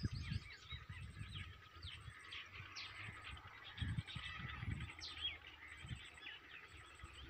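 Several birds calling: many short chirps and quick falling whistles overlapping, with a faint high-pitched pulse repeating about once a second. Low thumps on the microphone come and go, strongest about a second and four seconds in.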